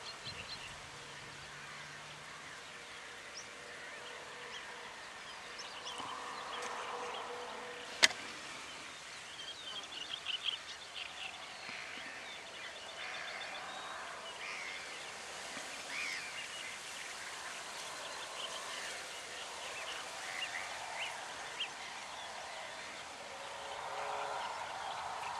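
Faint scattered bird calls, short chirps, over a steady outdoor hiss, with a brief cluster of louder calls about 10 seconds in. One sharp click about 8 seconds in.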